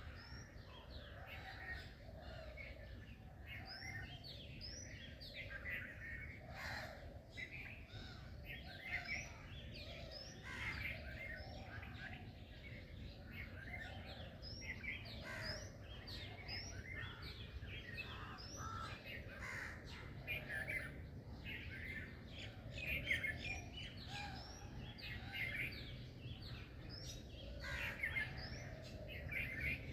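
Many birds chirping and singing together in a dense morning chorus of short, overlapping calls, over a steady low background rumble.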